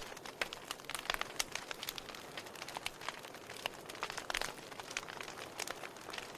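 Wood fire burning, the logs crackling with frequent irregular sharp pops over a soft steady hiss.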